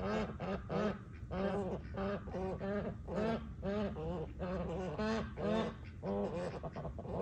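Waterfowl calling over and over in a quick, steady run of short honking calls, about three a second.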